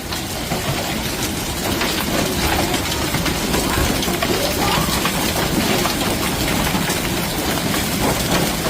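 Heavy storm rain pelting down on hard surfaces: a loud, steady clatter of many small impacts.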